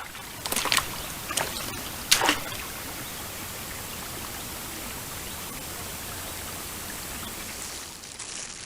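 Steady rush of flowing river water, with three short splashy knocks in the first two and a half seconds.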